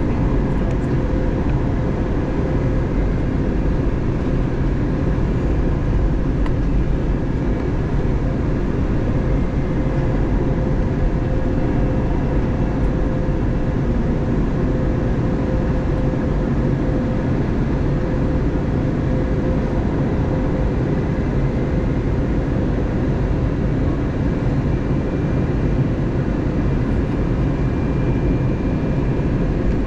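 Airbus A320neo cabin noise during descent: a steady rush of airflow and engine noise, with a few faint, steady whining tones over it.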